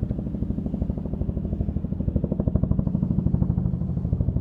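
Mack MP8 diesel engine of a 2015 Mack CHU613 tractor idling steadily, with an even, rapid pulse.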